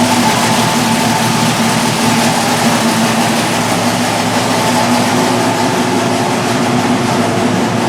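Built Buick Grand National V6 with a solid-roller cam running steadily on an engine dyno during its break-in, its cam sound rowdy.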